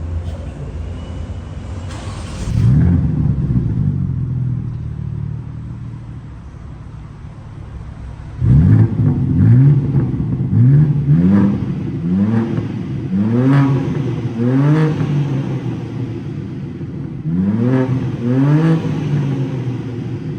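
BMW G87 M2's S58 twin-turbo inline-six engine running and being revved: one rev about two seconds in, settling to a steadier run, then from about eight seconds a quick series of about nine short throttle blips, each rising and falling in pitch.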